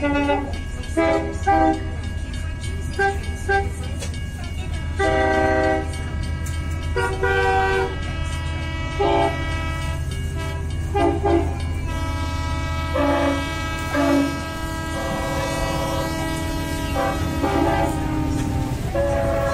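Steady low rumble of a moving passenger train, heard from inside the carriage. Over it runs a string of short pitched notes that keep changing pitch, like a tune.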